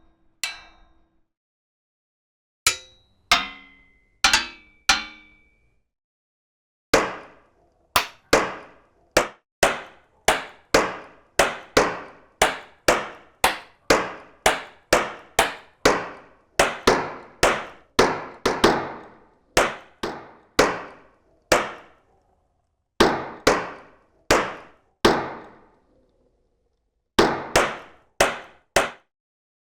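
A single clanging drum-kit sample triggered again and again from a keyboard: a few scattered hits, then a quick run of two to three strikes a second. Each strike is sharp and rings out briefly before the next.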